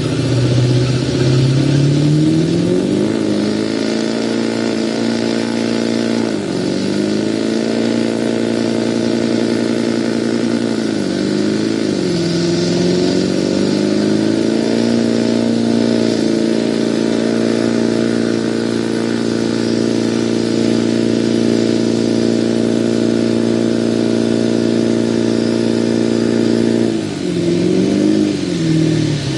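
2004 Chevy Duramax pickup's V8 turbodiesel revving hard during a burnout. The revs climb about three seconds in and are held high, dipping briefly and coming back up a few times.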